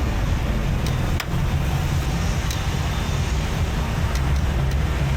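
Street traffic: motor vehicle engines running steadily, with a few sharp clicks or taps scattered through.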